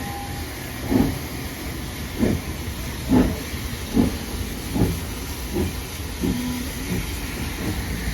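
Steam locomotive exhaust chuffing as a double-headed steam train pulls away from a station, the beats about a second apart and quickening as it gathers speed, over a steady rumble and hiss.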